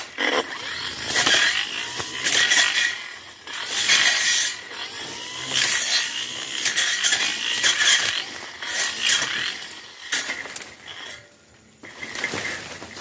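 Tanzu brush cutter cutting through brush, its engine rising and falling about every one and a half seconds as the blade swings into the growth. It drops back briefly near the end before picking up again.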